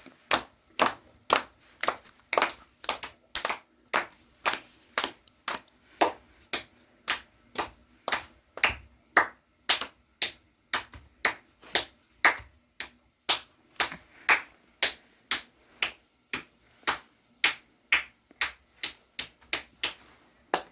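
A long, even run of sharp slaps or claps, about two a second, with no pause.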